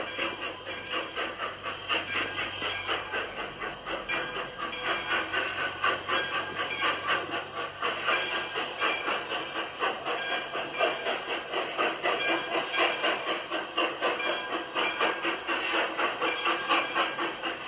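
Railway train running, with a continuous clattering rumble and rapid uneven beats.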